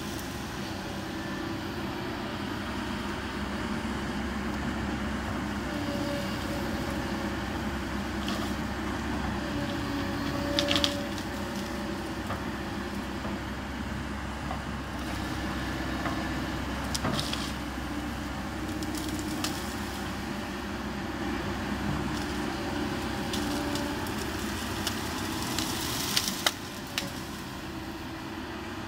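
Kobelco SK200 excavator's diesel engine running steadily under hydraulic work, with a few sharp cracks standing out over it.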